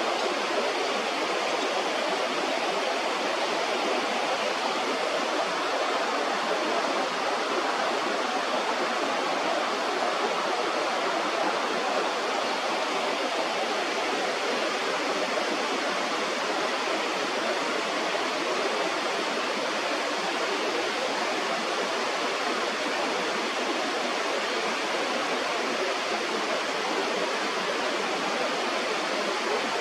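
Steady rush of flowing river water, an even hiss with no bird calls heard.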